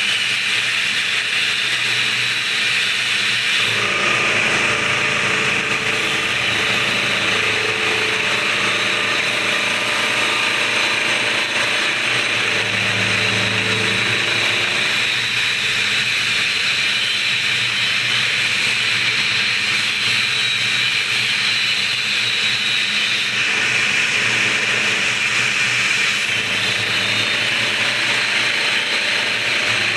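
Steady abrasive grinding hiss of the Yamaha V80 engine block being surfaced (planed down), continuous and even with no pauses.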